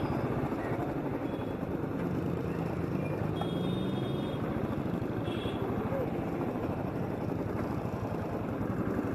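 Riding noise from a moving Royal Enfield Thunderbird 350X motorcycle: steady wind buffeting on the microphone over the running engine.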